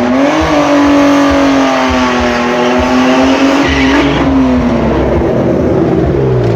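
Drift car's engine revving up and held at high revs for several seconds, then falling away near the end.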